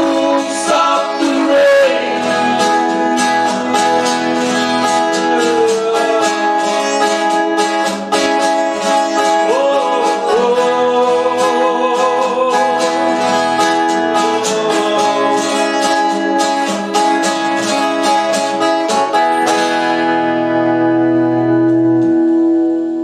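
Acoustic guitar strummed in a steady rhythm with a voice singing the closing lines of a folk-rock song. About twenty seconds in, the strumming stops and a final chord rings out and fades.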